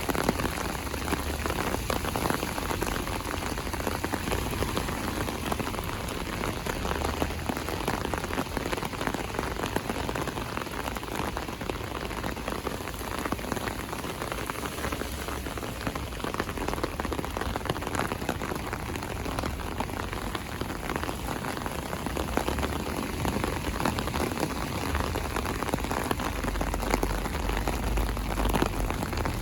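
Heavy rain falling steadily: a dense, even hiss of drops, with patches of low rumble that grow stronger near the end.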